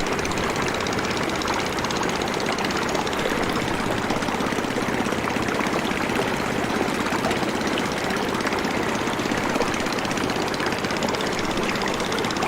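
A motorboat's engine running steadily at an even speed.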